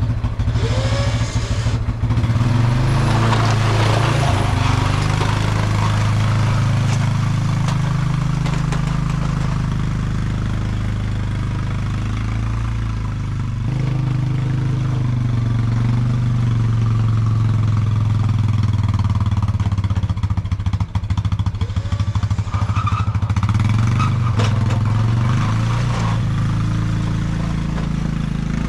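ATV engine running while plowing snow, its pitch shifting a little up and down as it works, with brief stretches of scraping noise.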